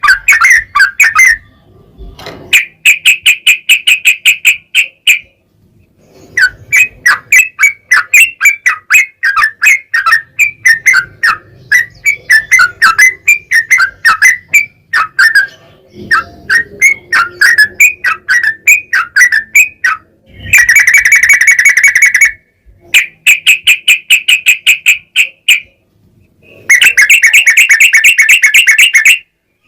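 Yellow-vented bulbul (trucukan) singing in a lively, chattering way: rapid strings of sharp notes in phrases a few seconds long with short pauses between them, some phrases delivered as fast, buzzing trills. It is loud and close.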